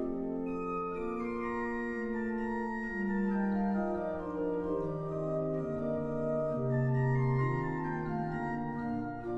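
Pipe organ playing a slow piece in sustained chords of several voices, the bass line stepping down in long held notes.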